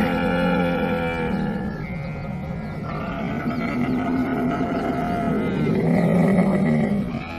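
Camel calling: long, low, pitched vocalisations, loudest at the start and again about six seconds in, easing off near the end.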